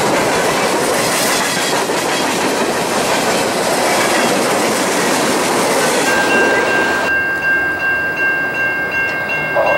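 Loaded freight cars, hoppers and a tank car, rolling past close by with a steady rumble and clickety-clack of steel wheels over the rail joints. About two-thirds of the way in this gives way to a much quieter scene with a steady high-pitched tone.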